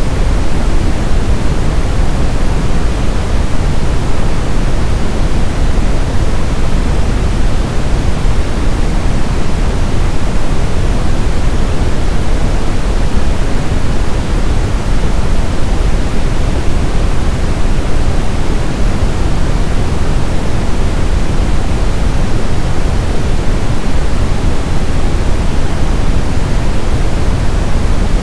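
Steady brown noise: a deep, even hiss-rumble with most of its weight in the low end, unchanging throughout.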